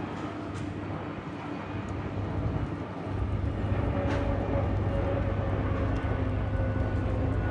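Airliner passing the airport, its engine noise carrying a slowly falling tone, with a deep low rumble coming in about three seconds in and holding steady.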